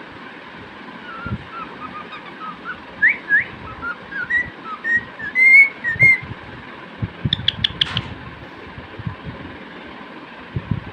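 Cockatiel whistling a song: a string of short, gliding whistled notes lasting several seconds, then a quick burst of sharp, high chirps a couple of seconds later. A few soft low thumps come in between.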